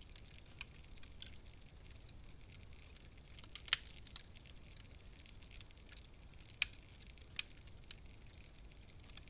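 Wood fire crackling in a fireplace: scattered sharp pops and snaps over a low, steady hiss. The loudest snaps come a little under four seconds in and twice around seven seconds in.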